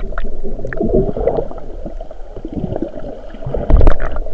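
Muffled underwater gurgling and rushing water, heard with the microphone submerged, with heavy low thumps near the end.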